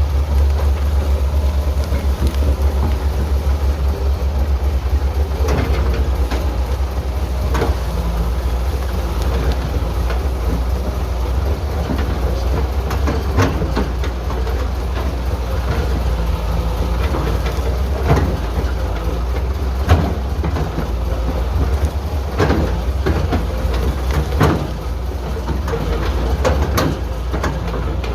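Heavy diesel engine of construction machinery running steadily, with scattered metal clanks and knocks every few seconds.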